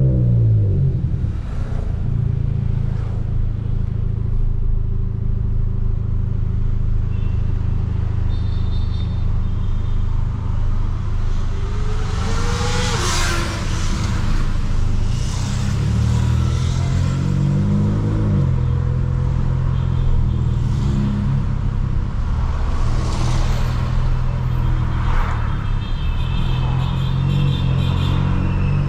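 Stage 2 tuned Volkswagen Polo GTS's turbocharged four-cylinder engine and sport exhaust while driving: mostly a steady low note, with revs dropping at the start and climbing twice around the middle, and a few short hissing bursts.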